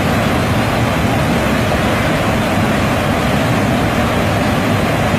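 Loud, steady rush of floodwater, with no let-up.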